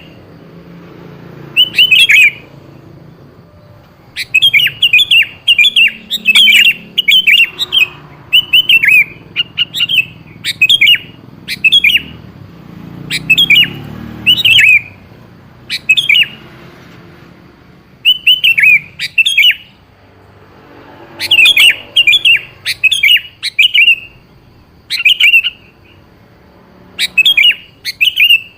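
Sooty-headed bulbul (kutilang) calling: short, bright, falling whistled notes in quick clusters of two to five, repeated every second or two, as a lure call for other bulbuls to answer.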